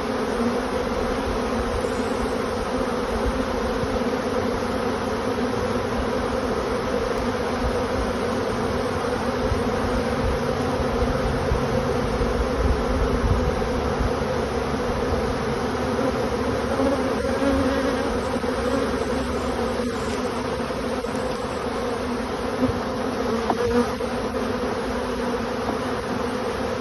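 A honey bee swarm buzzing steadily, a dense, even hum of thousands of wings around an open hive box.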